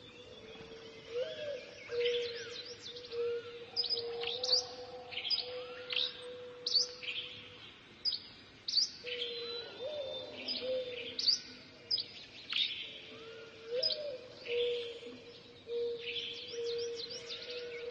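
Small birds chirping and twittering, many quick short calls overlapping, with a steady low tone underneath.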